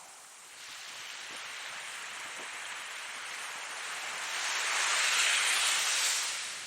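Ocean waves: a wave builds from about half a second in, swells to its loudest around five seconds as it breaks and washes in, then recedes near the end.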